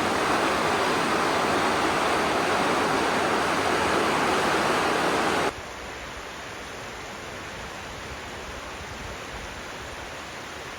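Steady rush of falling and flowing water. About halfway through it cuts suddenly to a quieter, thinner rush.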